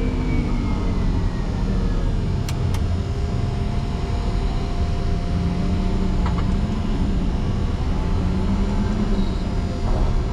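Motor grader's diesel engine running steadily under load, its pitch dipping over the first couple of seconds and then rising and falling. Two short clicks sound about two and a half seconds in.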